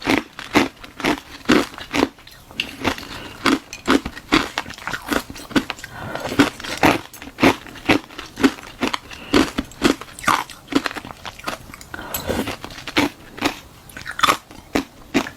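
Hard ice being bitten and chewed right at the microphone: a run of sharp, crackling crunches, about two a second, from a hollow balloon-moulded ice shell filled with frozen milk tea.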